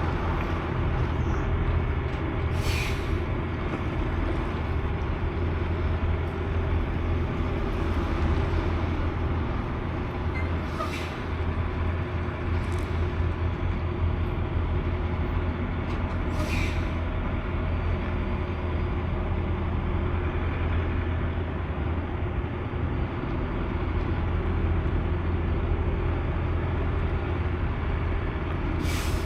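Semi-truck diesel engine running steadily, heard from inside the cab as a constant low drone. A few short hisses cut through it, five in all.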